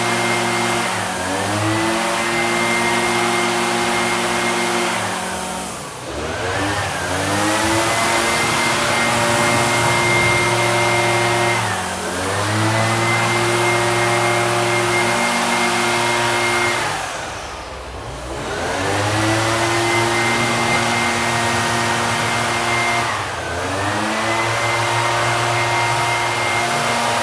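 Small handheld two-stroke engine held at high revs, with its pitch dropping briefly and climbing back up about every five to six seconds as the throttle is let off and squeezed again, five times in all.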